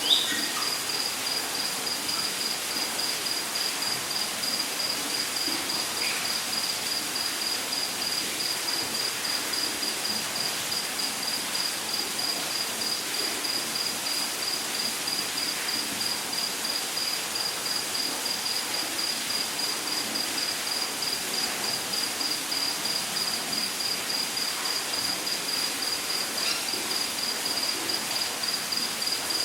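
Rainforest ambience: an insect chirping in a steady, rapid, evenly pulsed high note over a constant rush of water from a waterfall. A few short bird chirps come in at the start, about six seconds in and near the end.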